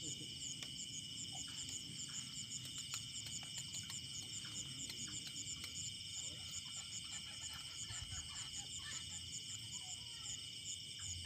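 Steady chorus of insects, with a high trill that pulses several times a second over a continuous buzz, and a few faint clicks.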